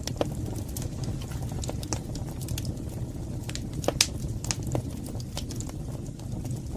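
Wood fire burning in a fireplace: a steady low roar of the flames with irregular sharp crackles and pops, one louder pop about four seconds in.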